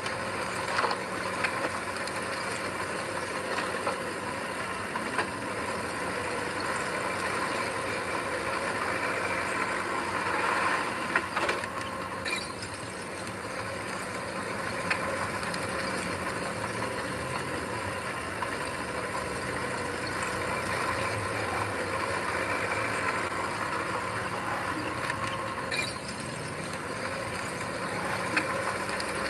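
Heavy earthmoving machine's diesel engine running steadily, with scattered short metallic clanks.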